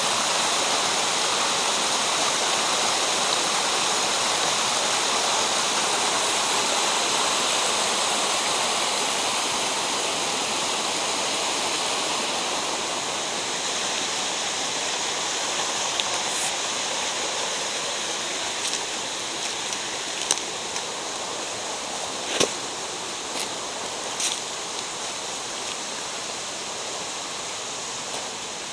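Mountain gorge stream rushing steadily, growing gradually quieter through the second half. A few sharp ticks and taps come in the later part.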